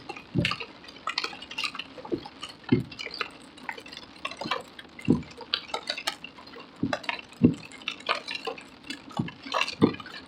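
Rain hitting the car's roof and windshield, heard from inside the cabin: a patter of sharp clicks with irregular heavier thuds from big drops.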